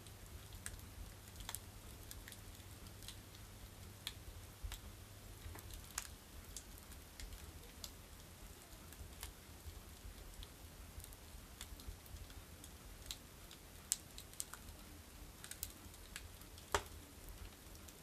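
Firewood burning down to embers in a masonry village stove, crackling with scattered sharp snaps at an irregular pace. Two louder pops stand out late on, the loudest near the end.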